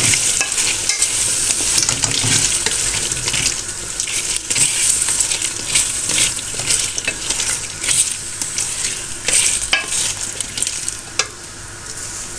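Diced potatoes frying in masala in a metal pan, with a steady high sizzle, while a wooden spatula stirs them with irregular scrapes and knocks against the pan.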